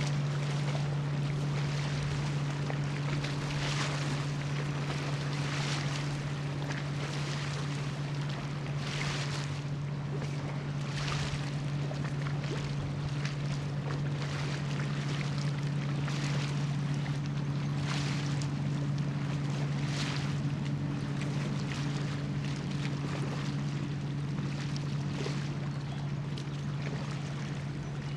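Steady low hum of an anchored cargo ship's engines carrying across the river, with wind and water noise swelling every second or two.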